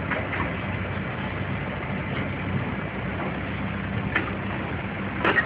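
A large engine running steadily with a low, even hum, and a short clatter near the end.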